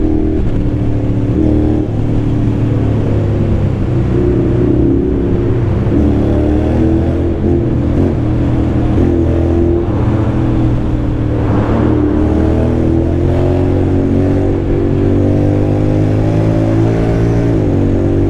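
Honda X-ADV 750's parallel-twin engine through an aftermarket dual exhaust, heard from the rider's seat as the scooter pulls through a road tunnel. The engine note climbs slowly under throttle and drops back a couple of times.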